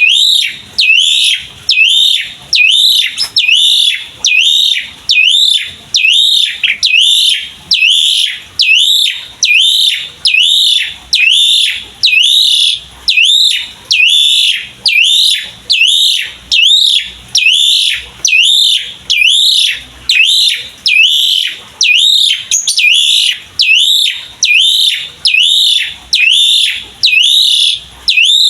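Asian pied starling (jalak suren) calling in its 'mompa' pumping song: one loud whistled call repeated over and over at a steady pace, a little more than once a second.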